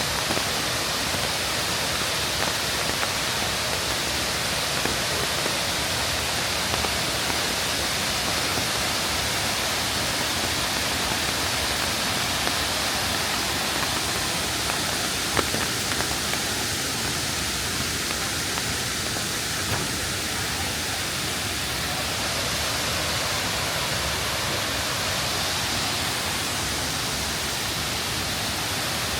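Waterfall: the steady, even rush of falling water, with one faint click about halfway through.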